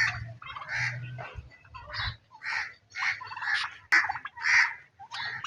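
Turkeys calling: a run of short, repeated calls, about two a second.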